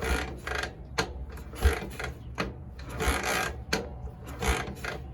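1968 BMW R50/2 flat-twin being kicked over with the ignition off: the kick lever and gears clatter and the engine turns over without firing, about one kick every second and a half. This is the dry kicking-through that primes the oil pump before a cold start.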